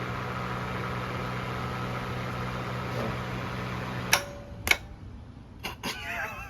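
Toyota Celica's engine running with a steady hum, then cutting off abruptly about four seconds in. A few sharp clicks or knocks follow.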